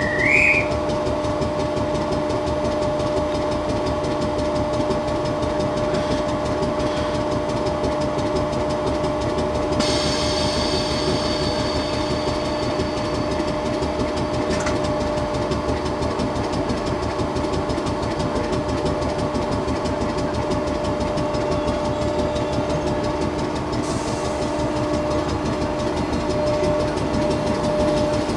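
4-CEP slam-door multiple unit train rolling slowly, heard from an open window: a steady hum over constant running rumble. About ten seconds in, a high hiss comes in for a few seconds.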